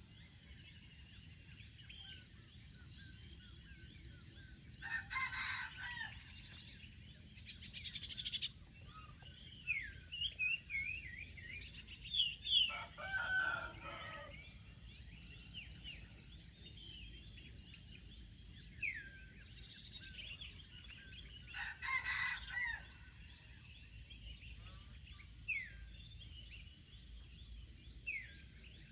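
A rooster crowing three times, about eight seconds apart, with short high chirps of small birds between the crows over a steady high insect drone.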